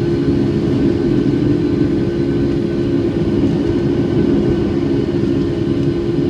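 Cabin noise of a Boeing 757-200 with Rolls-Royce RB211-535E4B turbofans: a loud, steady engine drone and air rush heard from inside the passenger cabin, with a few held tones in the hum.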